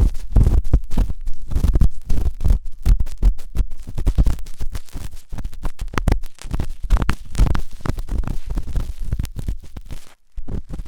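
Ear-cleaning ASMR: an ear pick scraping and rubbing hard inside the ear, close and loud, as a dense run of irregular scratches with low rumbling thumps. It stops briefly near the end.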